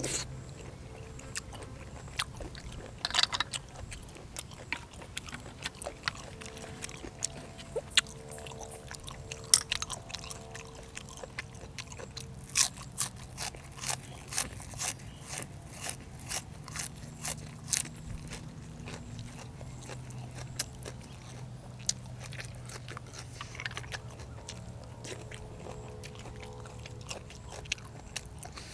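A person chewing crunchy food close to the microphone: a run of crisp crunches and bites, coming thickest and fastest in the middle of the stretch at about two a second.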